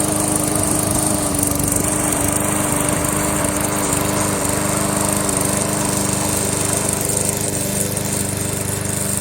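Lawn mower engine running steadily on a home-built remote-control mower as it drives across the grass.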